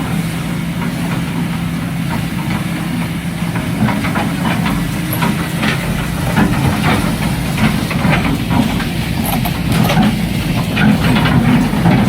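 Heavy machinery engine running steadily, with irregular knocks and clanks and a hiss over it.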